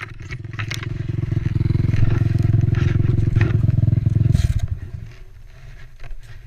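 Yamaha WR450F's single-cylinder four-stroke engine running at a steady, fast-pulsing idle, getting somewhat louder after about a second, then cutting out suddenly about four and a half seconds in.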